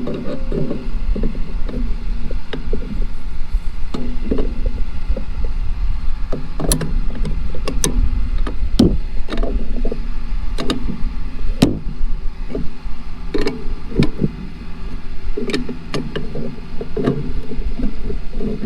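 Irregular metallic knocks and clicks of hand tools tightening a loose alignment cable on a center-pivot irrigation tower, over a steady low rumble.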